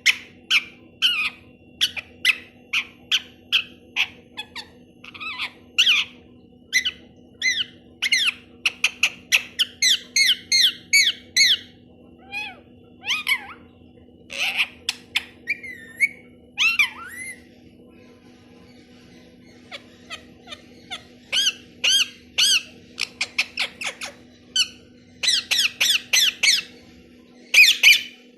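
Pet parrot giving rapid series of short, sharp squawking calls, several a second, breaking off briefly a little past halfway and then resuming. A faint steady hum runs underneath.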